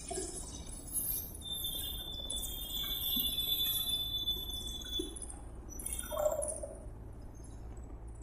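Birds chirping in quick, high calls, with one long steady high whistle-like tone held for about four seconds in the middle, over a low steady hum.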